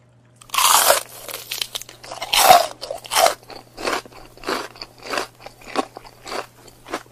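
Chicken foot cooked adobo-style being bitten and chewed: a run of crunching, chewing mouth sounds, about two a second, starting about half a second in and loudest in the first few bites.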